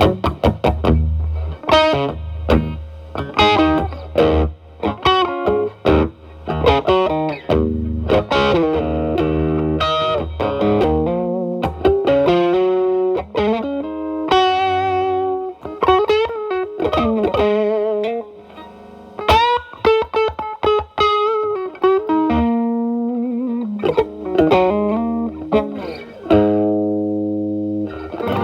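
Electric guitar (Telecaster) through an E.W.S. Brute Drive distortion pedal into a Marshall Valvestate amp's drive channel, on a cleaned-up, lighter overdrive setting. It plays strummed chords, then single-note lead lines with string bends and vibrato, then rings out sustained chords near the end.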